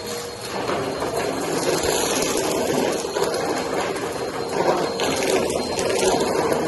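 Vacuum cleaner running on carpet: a steady motor whine under a rough, gritty rush of suction that grows louder about half a second in.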